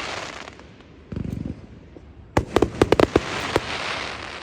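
Fireworks display: a rapid cluster of about seven sharp bangs from bursting fireworks, starting a couple of seconds in, each run of bangs followed by a hissing haze that fades away.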